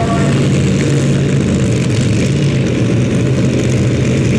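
Competition pulling tractor's engine running at high power, a loud, steady drone that holds its pitch.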